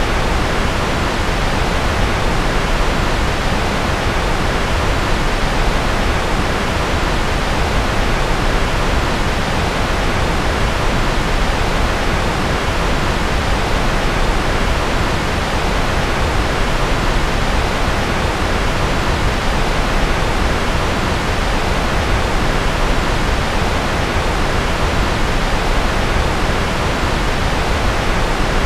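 Steady, unchanging generated noise track sold as white noise. It is a smooth, even hiss with more weight in the low and middle range than at the top, closer to pink noise.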